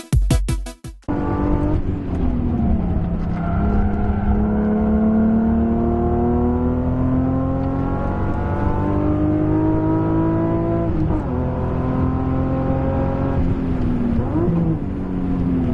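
BMW E36 M3's 3.2-litre straight-six heard from on board under hard acceleration, its note climbing steadily for several seconds, dropping at an upshift about 11 seconds in, then a short dip and throttle blip on a downshift near the end. A second of electronic music opens it.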